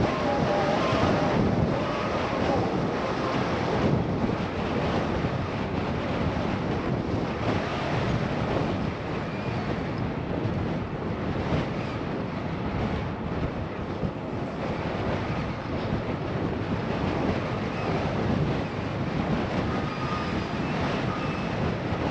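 Steady wind rushing over a GoPro's wind-screened microphone on a moving bicycle, a continuous even noise.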